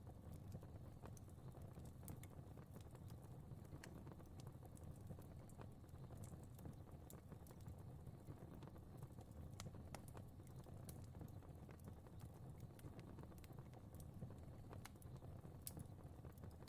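Fire crackling faintly: scattered small snaps and pops over a steady low rumble of flames.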